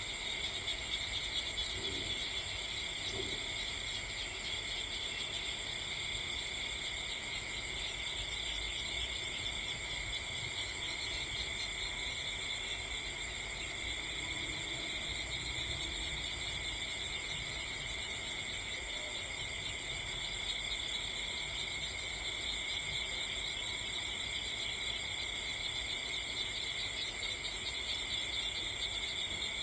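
Steady chorus of night insects such as crickets, a dense high-pitched trilling that holds at an even level throughout.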